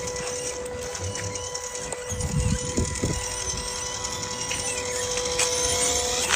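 Small motor of a radio-controlled Suzuki Gypsy model running at a steady speed with an even, steady whine that cuts off near the end, with a few low knocks about two to three seconds in.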